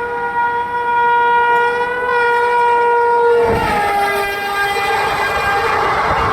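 Indian Railways express locomotive's horn sounding one long blast, its pitch dropping about three and a half seconds in as the locomotive passes by, then the rush and clatter of the passing train.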